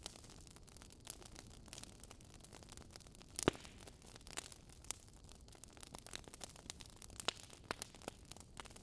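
Wood fire crackling, with irregular small snaps and pops over a faint steady hiss and one louder pop about three and a half seconds in.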